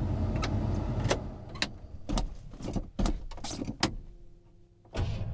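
Cold start of an old plow truck: a series of clunks and knocks, then a short hush with a faint steady hum, and the starter begins cranking just before the end.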